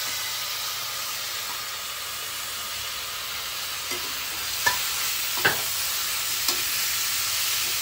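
Chopped tomatoes sizzling steadily as they fry in hot oil and masala in a non-stick kadai while being stirred in with a spoon. There are three short knocks in the second half, of the spoon against the pan.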